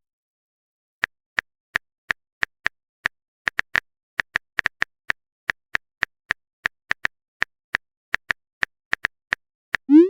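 Typing-sound clicks of a phone keyboard: short, same-pitched clicks at an uneven pace, two or three a second.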